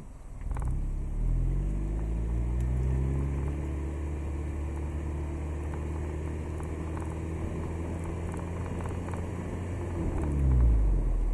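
Car engine and road noise heard from outside the car as it pulls away: the engine note rises over the first couple of seconds, then holds steady while driving. Near the end the note drops and there is a brief louder surge.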